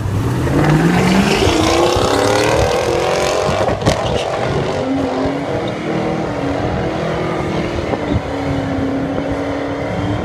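LS1 5.7-litre V8 of a 2002 Camaro with a six-speed manual, launching hard down the drag strip: the engine note climbs steadily through first gear, drops at a shift about four seconds in, then pulls again as the car runs away. The owner says the tyres were spinning badly in first and second.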